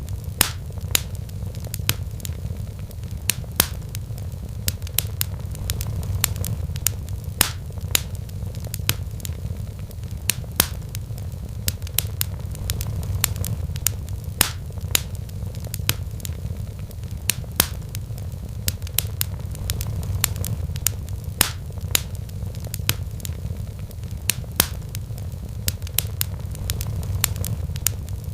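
Wood fire crackling in a fireplace, with sharp pops several times a second, over a steady low purring from a sleeping cat.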